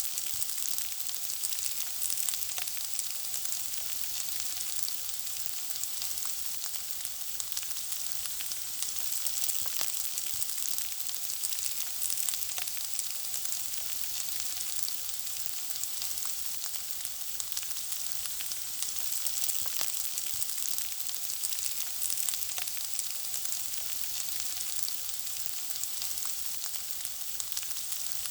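Food frying in hot oil: a steady high sizzle with many small crackles throughout.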